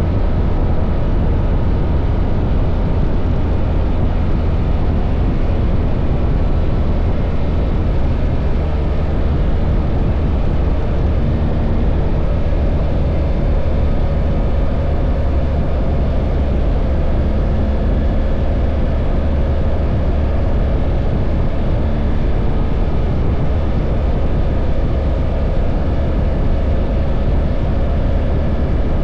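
BMW R1300 GS boxer-twin engine running at a steady speed while riding, a steady low drone under an even rushing noise.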